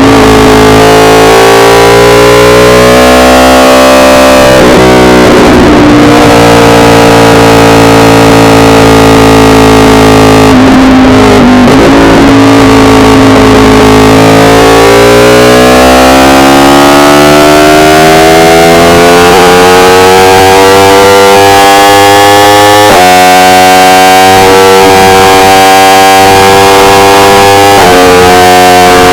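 Yamaha R1 inline-four sportbike engine under way, its pitch easing off and then climbing steadily through the revs, dropping suddenly twice, about two thirds through and again near the end, as it shifts up. The recording is overloaded and distorted.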